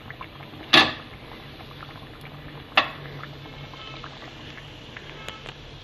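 Chicken kebabs and spices bubbling in hot oil in a karahi over high heat, with two sharp clinks of metal, the first about a second in and the second near the middle.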